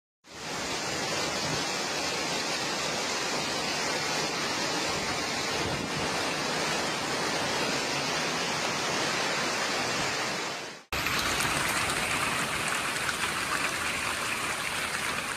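Heavy hail and rain pelting down in a dense, steady hiss. About eleven seconds in there is a hard cut to a second recording, which is full of rapid, fine hailstone impacts.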